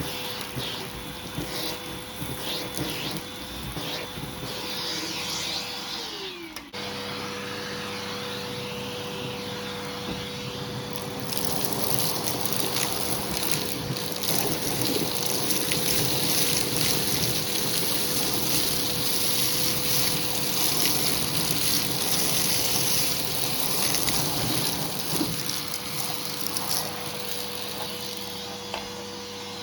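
Hoover vacuum cleaner running with a steady motor whine, its hose tool sucking carpet powder out of a shag rug. There is a short break about seven seconds in, and from about eleven seconds in the rush of air through the tool gets louder.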